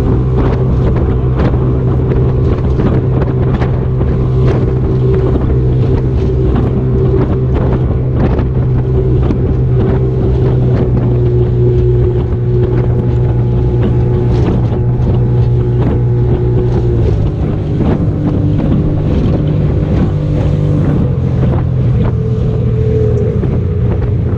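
A motorboat's engine running steadily under way, with wind buffeting the microphone. The engine note shifts slightly about two-thirds of the way through.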